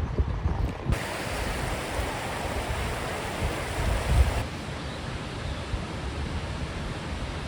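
Outdoor wind buffeting the microphone with an uneven low rumble, joined by a steady hiss that cuts in about a second in and cuts off abruptly about four seconds later.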